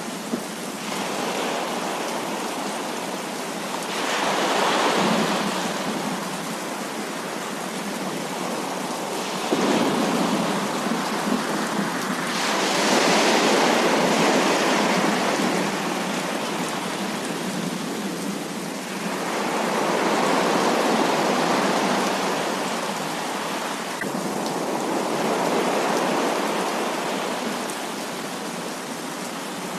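Heavy rain falling in a steady hiss that swells and eases in long waves every few seconds.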